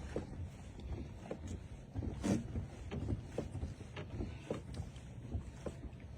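Water slapping and knocking against the hull of a small boat, about two short knocks a second, over a low wind rumble on the microphone.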